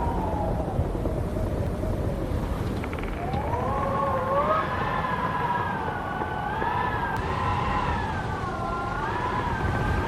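Wind howling: a wavering, whistling moan that bends up and down in pitch, fading at first and rising again about three seconds in, over a steady low rush of wind noise.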